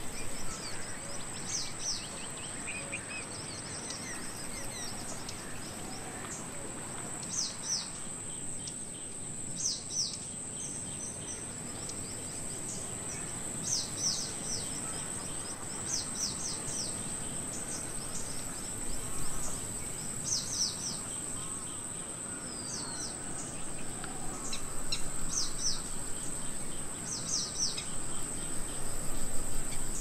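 Small birds chirping: short, high, falling notes in quick clusters of two or three, repeated every second or two. Under them runs a steady high-pitched drone and a soft outdoor hiss.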